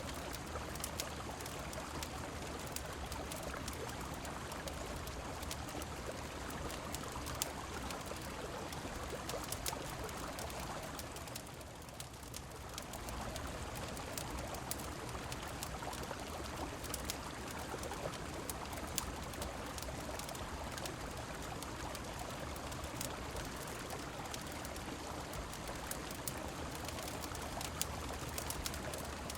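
Steady rush of a flowing river and falling rain, scattered with small sharp crackles from a fireplace. The water sound dips briefly near the middle.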